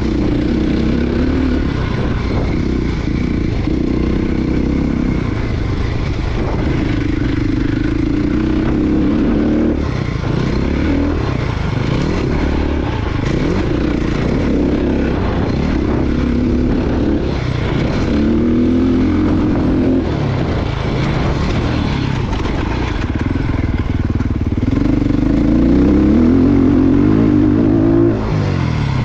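Motocross bike engine revving hard and shifting, its pitch climbing and then dropping again several times over, with rough noise under it throughout.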